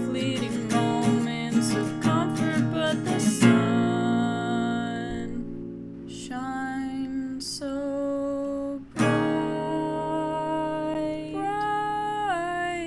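Acoustic guitar strummed, then left ringing, under long wordless held sung notes that step down in pitch a couple of times. This is a song performed with voice and guitar.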